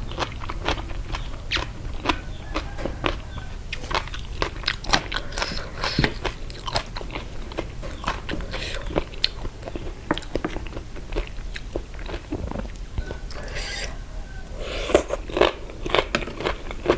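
A person biting and chewing crunchy food close to the microphone, a dense, irregular run of crisp crunches and clicks: eating a spicy Thai pickled seafood salad of pickled jellyfish and shrimp.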